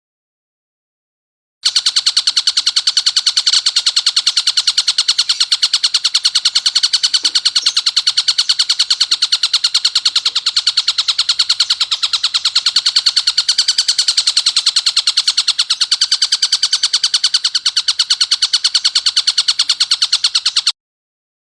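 Tengkek buto kingfisher's harsh, rapid chattering call, about five notes a second, starting about two seconds in, running unbroken and cutting off near the end.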